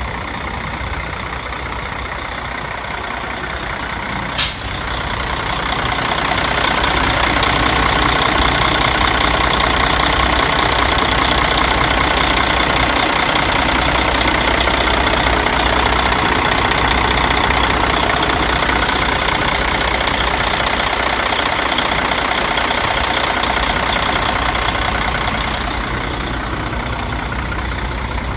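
Mercedes OM460LA 12.8-litre inline-six turbo-diesel engine running steadily on a test run, with a single sharp click about four seconds in. The sound grows louder a few seconds later and eases back near the end.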